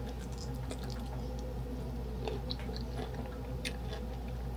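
A person chewing a mouthful of broccoli, with small crunches and mouth clicks scattered throughout, over a steady low hum.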